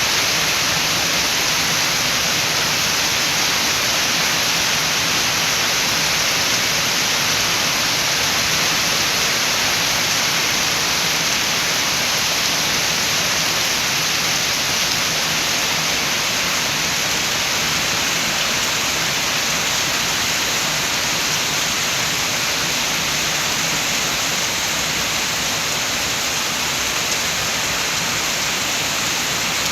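Steady heavy rainfall, an even hiss with no separate drops or gusts standing out.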